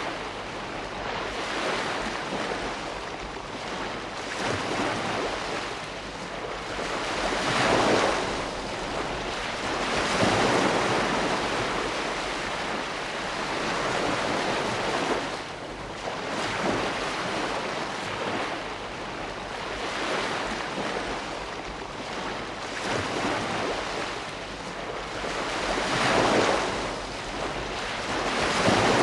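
Ocean waves breaking and washing on the shore, a steady surf hiss that swells with each wave, with louder breakers about 8, 10, 16 and 26 seconds in.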